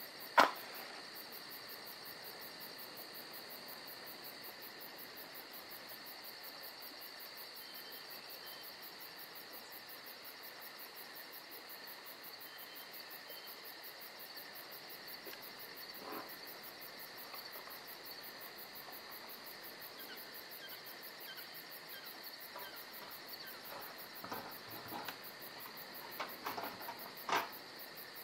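Insects chirping steadily in a fast, even pulse. A sharp click comes just after the start, and a few light clicks and knocks come near the end.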